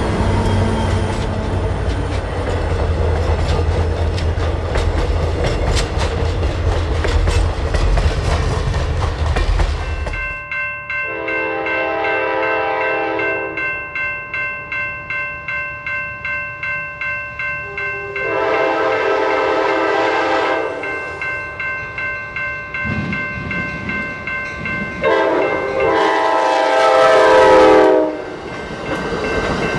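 A diesel passenger locomotive, an EMD F40PH, runs loud with a deep engine rumble for about ten seconds. Then, in a second shot, the train sounds its multi-note air horn three times, each blast a few seconds long, while the wheels click over rail joints about twice a second.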